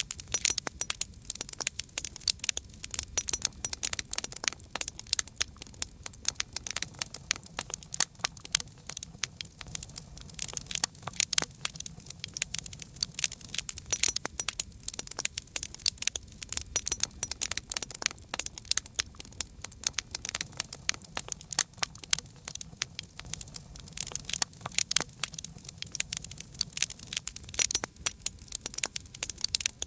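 Campfire crackling: dense, irregular pops and snaps of burning wood, over a steady low rumble.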